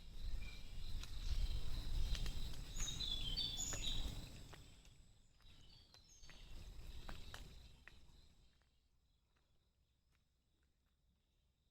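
Outdoor morning ambience: a low rumble on the microphone for the first few seconds, with a few short, high bird chirps scattered through it, then the sound fades to near quiet.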